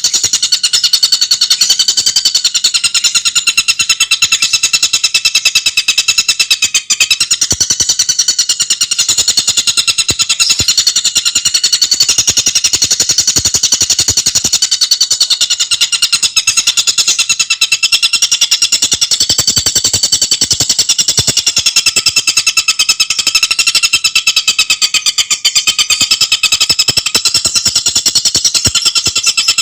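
Tengkek buto bird singing a long, continuous rapid trill of fast-repeated high notes, rattling on almost without a break.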